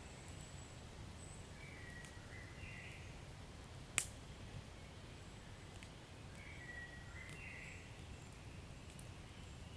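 Wood fire burning in a fireplace: a low steady rumble with scattered faint crackles and one sharp pop about four seconds in. Twice a faint high whistle rises out of it for about a second.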